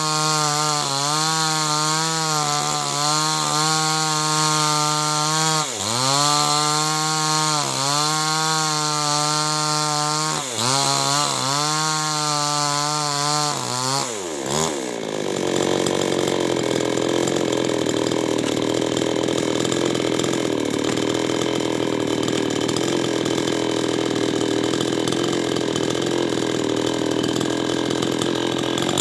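Two-stroke chainsaw running hard while cutting wood, its pitch wavering and dipping briefly a few times. About halfway through the note drops and turns rougher and steadier.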